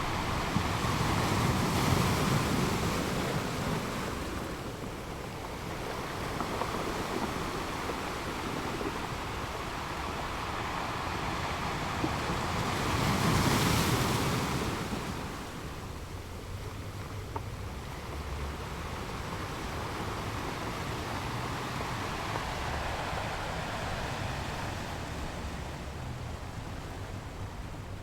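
Sea surf washing in steadily, with two bigger waves breaking and swelling louder, about two seconds in and again near the middle.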